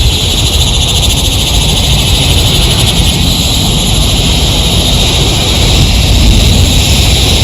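Heavy rain pouring steadily on a tent, a loud, even hiss with a deep rumble beneath it.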